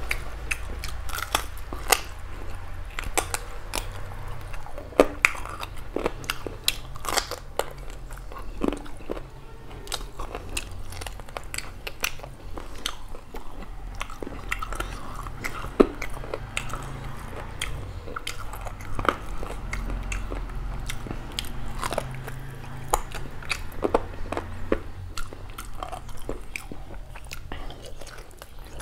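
Close-miked chewing of a mouthful of beef curry and rice eaten by hand: many short, sharp, irregular mouth clicks and smacks.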